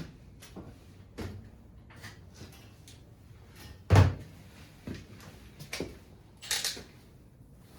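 Scattered clicks and knocks of hand tools and engine parts being handled during an engine teardown, with one heavy clunk about halfway through and a short scraping sound near the end.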